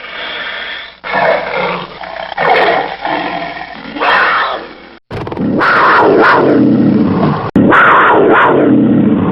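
Wild cat calls, growling and roaring from several spliced recordings, one after another with abrupt cuts between them about a second, five seconds and seven and a half seconds in; the calls slide up and down in pitch.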